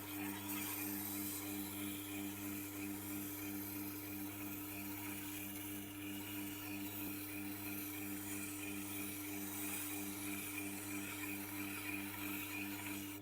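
Tormek T8 sharpener's motor humming steadily while a knife edge rubs against its spinning leather honing wheel with a continuous even hiss, a light pass to hone the apex.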